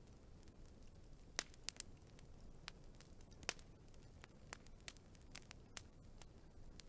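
Wood fire crackling: sharp, irregular pops and snaps over a faint low hiss, with the loudest pops about a second and a half in and again about three and a half seconds in.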